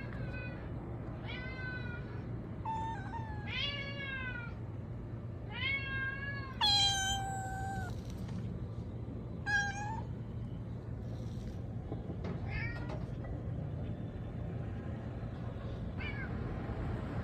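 Domestic cat meowing again and again, about seven or eight meows at uneven gaps, the longest drawn out for nearly two seconds around six seconds in, over a steady low hum.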